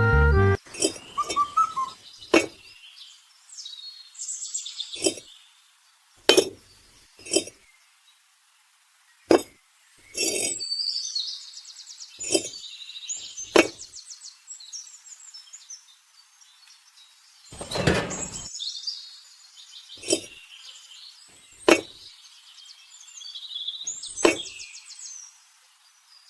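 Sharp clinks and taps of small hard objects at irregular intervals, with a rattling scrape of about a second just past the middle. Birds chirp and trill in the background.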